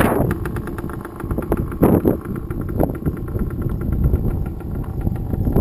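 Dirt bike engine idling with a fast, even pulse, along with a couple of dull knocks.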